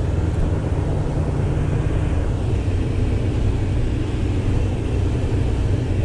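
Pickup truck engine running, a steady low rumble.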